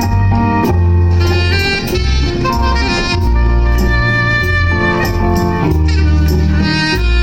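Soprano saxophone playing a slow jazz ballad melody over bass and drums, with a steady bass line and regular cymbal ticks.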